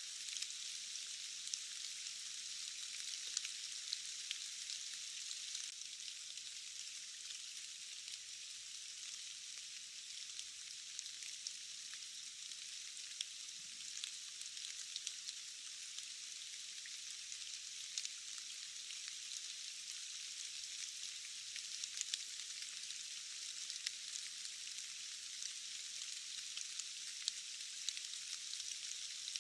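Steady rain: an even, thin hiss sprinkled with many sharp ticks of single drops striking, with no low rumble under it.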